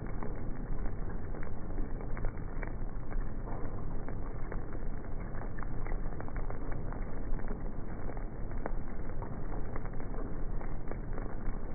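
Rain and wind on the microphone: a steady low rushing noise dotted with many small scattered ticks.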